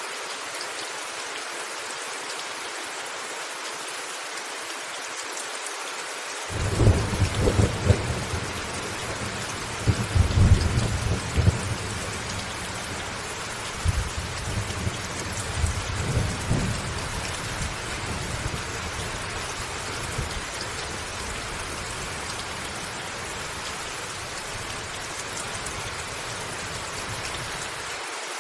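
Thunderstorm: steady rain falling on a roof, with a long roll of thunder starting about a quarter of the way in. The thunder rumbles in several swells and dies away, ending abruptly near the end.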